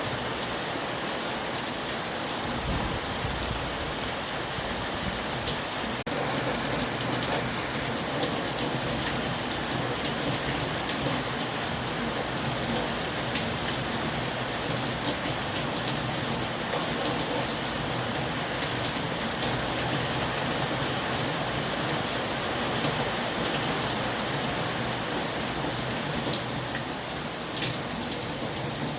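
Heavy rain falling steadily, a dense hiss of drops striking a surface, getting a little louder about six seconds in.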